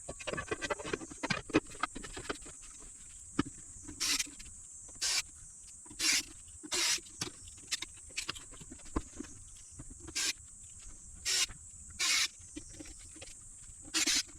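Small clicks and knocks of parts being handled, then about a dozen short bursts, roughly a second apart, from a small electric screwdriver driving screws as the inverter is put back together.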